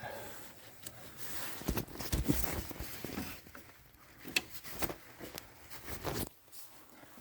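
Hands working over engine-bay parts: irregular clicks and light knocks with some rustling, dying down near the end.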